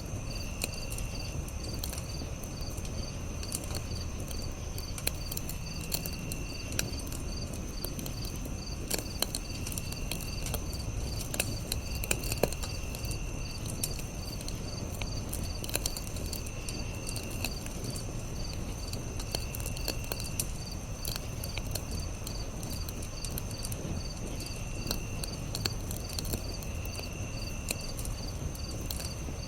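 Campfire crackling with scattered sharp pops over a steady low rumble, under a chorus of insects: one high steady trill, one rapid evenly pulsed chirping, and short trills repeating every couple of seconds.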